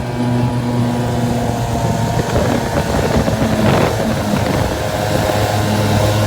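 A 5 hp outboard motor running steadily at speed, held at an even pitch, over the rush of water. A brief surge of splashy noise comes about four seconds in.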